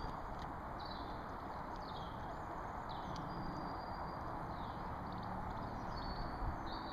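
Small birds calling with short sweeping chirps, about once a second, over a steady outdoor background hiss.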